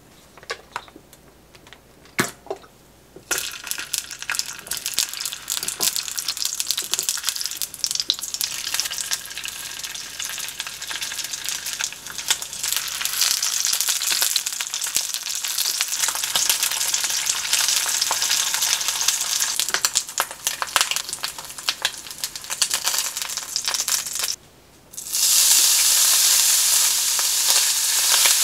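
Food sizzling and crackling as it fries in oil in a nonstick frying pan, after a few light knocks of a wooden spoon against a steel pot in the first seconds. The sizzle cuts out briefly near the end and comes back louder as diced bacon is stir-fried.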